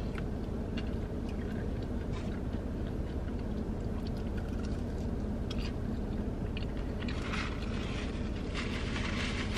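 Close-up chewing and biting of chicken wings, with scattered small mouth clicks and a busier stretch near the end, over a steady low hum.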